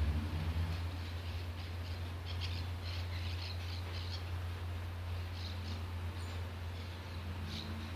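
Small birds giving quick, high chirps in a run of a couple of seconds, with a few more scattered chirps afterward, over a steady low background hum.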